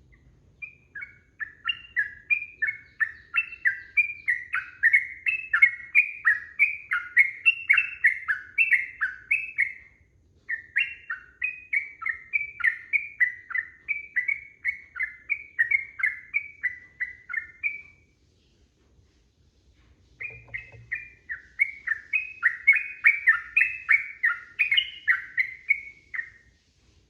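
Sooty-headed bulbul singing a fast run of bubbly, warbling notes, delivered in three long bouts with a short break about ten seconds in and a longer one about eighteen seconds in.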